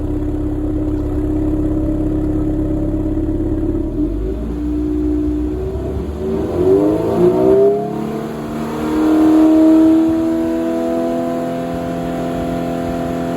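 Subaru BRZ's flat-four boxer engine through a stock muffler gutted of its internals: it idles steadily, is blipped a couple of times, then held at raised revs and eased back to a steady fast idle.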